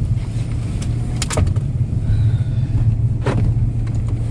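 Steady low engine and road drone inside a Ram regular-cab pickup's cab on the move, with a couple of short higher sounds, one about a second in and one past three seconds.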